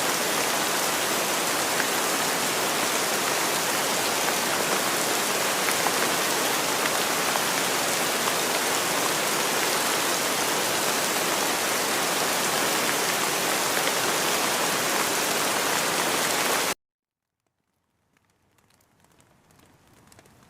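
Steady, heavy rain, a dense even hiss of drops. About three-quarters of the way through it cuts off abruptly to silence, then comes back faintly and slowly swells again.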